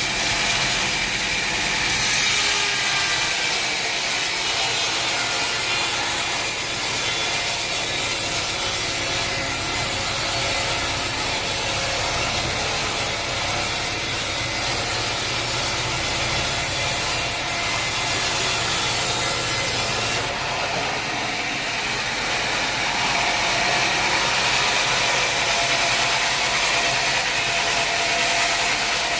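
Sawmill machinery running steadily, with the saw cutting through a log from about two seconds in. The cut adds a high hiss that stops abruptly about twenty seconds in, and the machine runs on without load.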